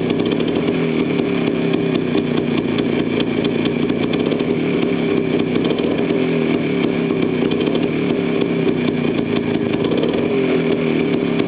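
DKW SB200 motorcycle's single-cylinder two-stroke engine running steadily on a trial run, its pitch holding even without revving.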